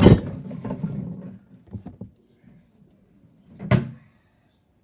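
A sharp knock followed by about two seconds of light rattling and clattering, then a second single knock a little before the end.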